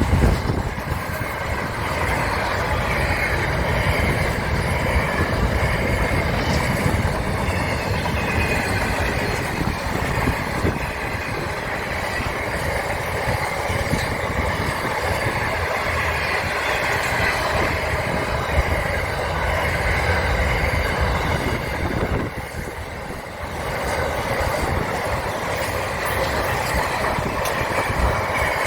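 A train running on the rails, a steady, continuous noise of wheels on track, briefly quieter about three quarters of the way through.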